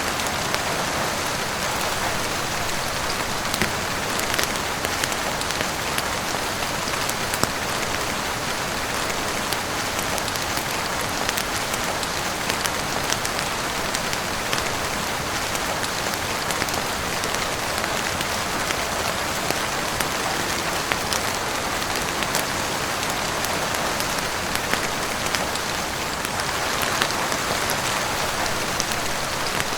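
Steady heavy rain falling on a roof, with scattered sharp crackles and pops from a wood fire in a fireplace.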